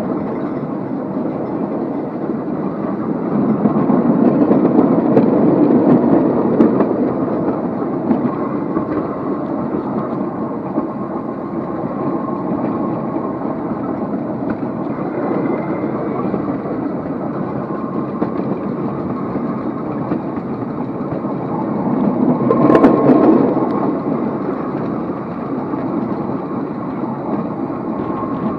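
Steady rumble of a vehicle running on rails, swelling louder twice: about four to six seconds in and again near twenty-three seconds.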